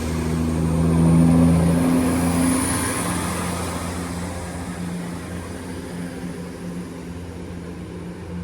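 Diesel train engine running with a steady low hum, growing louder to a peak about a second in and then fading away slowly as the train moves off.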